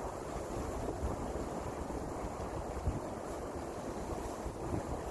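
Wind buffeting an outdoor microphone: a steady rumbling hiss, heaviest in the low end.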